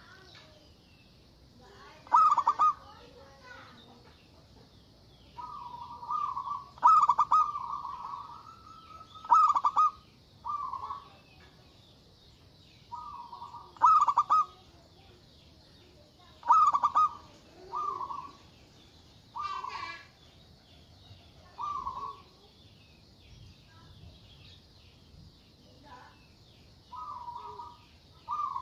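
Zebra dove (perkutut) cooing: short phrases of quick, rolling coo notes, repeated every one to three seconds, over a steady faint high-pitched hiss.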